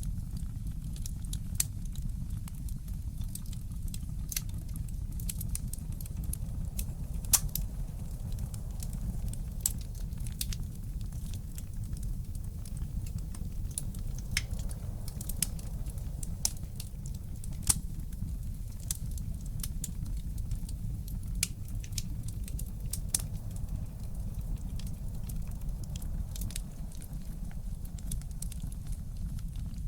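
Wood fire crackling in a fireplace, with irregular sharp pops and snaps, a few louder than the rest, over a steady low rumble.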